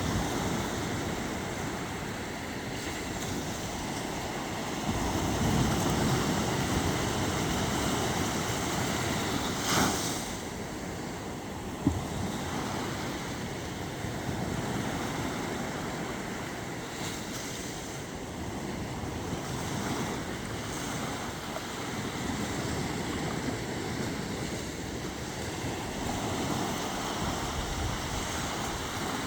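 Sea waves washing in, with wind on the microphone: a steady rushing noise that swells and falls. There is a brief louder rush about ten seconds in and a sharp click near twelve seconds.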